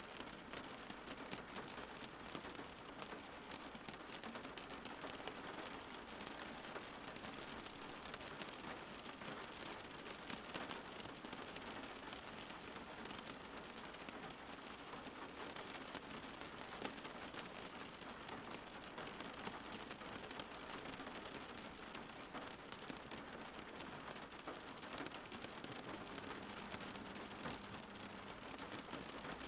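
Steady rainfall, a dense even hiss of drops pattering on surfaces.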